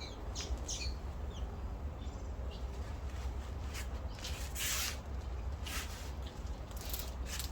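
Scattered short bird chirps and calls with a few brief scratchy bursts, the longest a little over halfway through, over a steady low rumble.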